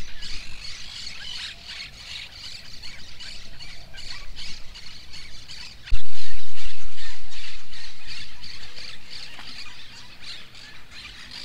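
Birds squawking over and over outdoors, with a sudden loud bump about six seconds in.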